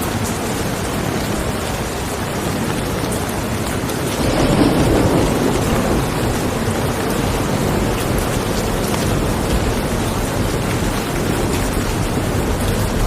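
Steady rain falling, with a low rumble of thunder that swells about four seconds in and slowly fades back into the rain.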